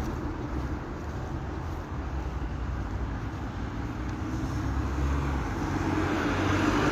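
Steady low rumbling noise, like road traffic or a running vehicle, without distinct events.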